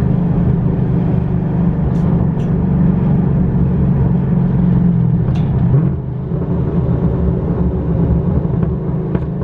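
Cammed LS3 V8 of a 2011 Camaro, straight-piped with its muffler deleted, running steadily while it warms up, with a loud, rough exhaust note that dips slightly about six seconds in.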